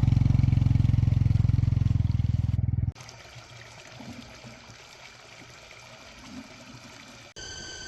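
Small motorcycle engine running close by, a steady low drone that cuts off abruptly about three seconds in, leaving only faint outdoor background.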